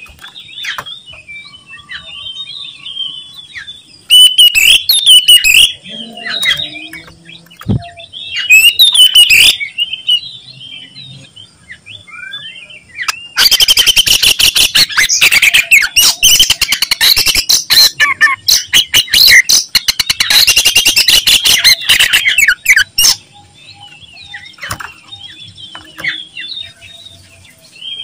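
Oriental magpie-robin singing a loud, varied song of quick chirps and whistles. It breaks into short loud bursts about 4 and 9 seconds in, then a long run of rapid, loud chattering notes from about 13 to 23 seconds in.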